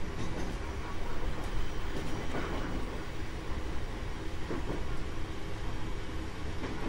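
JR East 719 series electric train running along the line: a steady rumble of wheels on rail, with a few faint knocks from the rail joints.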